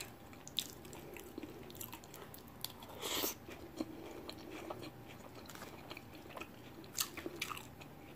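Faint, close-miked chewing and crunching of a person eating a tostada salad bowl, lettuce and a crisp fried tortilla shell, with scattered small clicks of a fork. There is a louder crunchy burst about three seconds in and sharper clicks near seven seconds.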